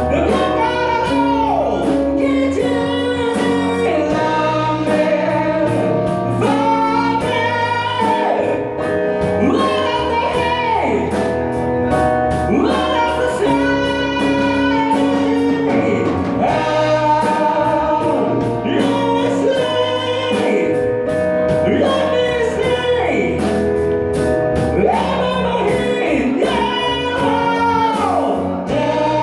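A live cover of a rock power ballad: a singer holding and gliding between long notes with vibrato over band accompaniment with a steady drum beat.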